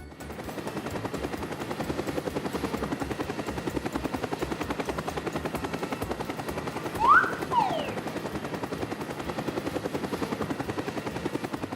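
A steady, rapid mechanical chopping pulse of about ten beats a second, like a helicopter rotor, with two quick whistling glides about seven seconds in, one rising and then one falling.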